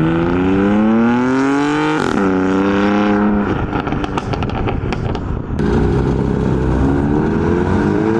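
Modified car engine accelerating hard, its note climbing for about two seconds, then dropping suddenly at a gear change or lift-off. A stretch of rapid crackling follows, and a second rising rev comes near the end.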